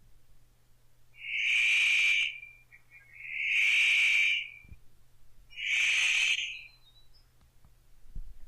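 Paradise Riflebird calling: three long, rasping calls, each about a second long, about two seconds apart.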